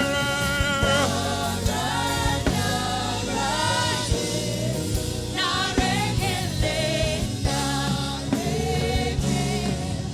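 Gospel praise song: a lead singer and congregation singing with a live band of keyboard, bass and drums.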